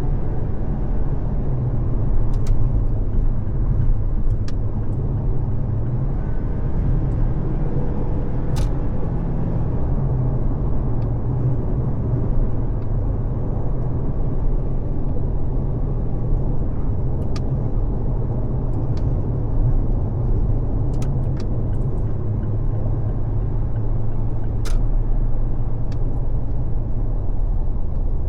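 A car driving at freeway speed: a steady low rumble of tyre, road and engine noise, with a dozen or so faint sharp ticks scattered through it.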